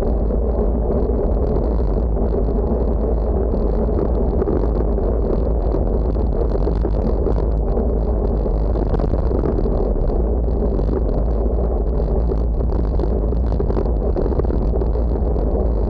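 Steady wind rushing and buffeting over the microphone of a camera moving at riding speed, an unbroken noise that is heaviest in the deep bass.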